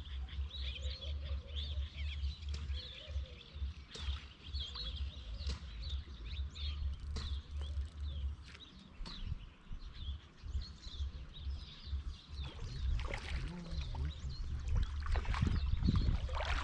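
Small birds chirping and twittering, with a gusty low rumble of wind on the microphone. Near the end a louder, rougher noise builds up.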